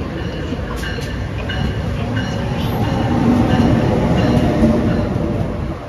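NJ Transit locomotive and multilevel coaches pulling into the station: a steady rumble of wheels on rail with clicks and short high-pitched tones, growing louder as the locomotive passes close by about three seconds in.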